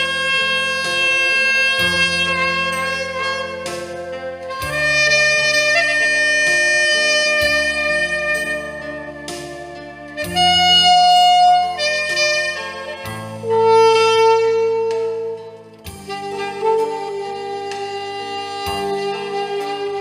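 Saxophone playing the slow melody of a ballad in long held notes, over an accompaniment of sustained bass and chords.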